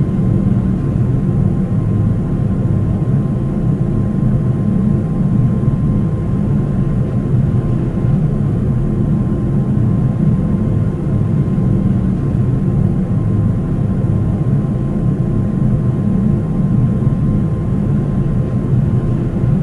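Steady low rumble of a Boeing 737-800's CFM56 engines and airflow heard inside the passenger cabin, with a faint steady whine above it.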